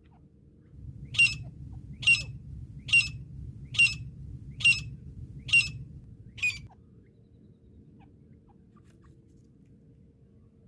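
Francolin (teetar) calling: a series of seven short, sharp notes evenly spaced just under a second apart, the last one weaker.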